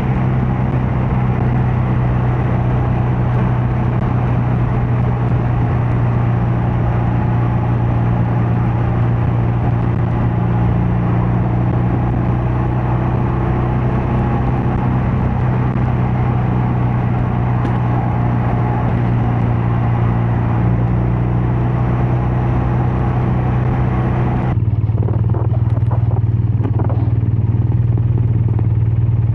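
BMW R12 nineT's boxer twin running steadily at cruising speed, recorded on the moving motorcycle with road and wind noise. About 24 seconds in the sound changes suddenly: the hiss falls away and the engine note becomes deeper and a little louder.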